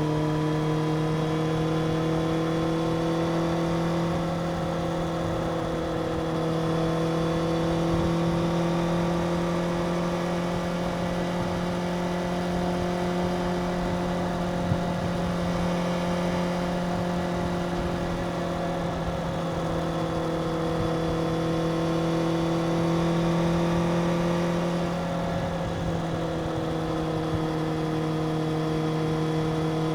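Stock Suzuki GSX-R750's inline-four engine running at steady revs, its pitch drifting slightly up and down and dipping briefly twice in the second half, over a steady rush of noise.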